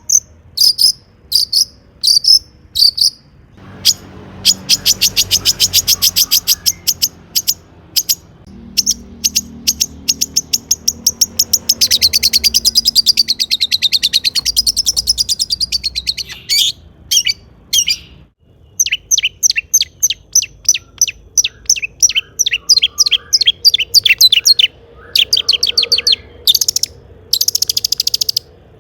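Long-tailed shrike (cendet) singing: fast trains of short, sharp, high chattering notes, many a second, broken by short pauses, with a brief gap about 18 seconds in.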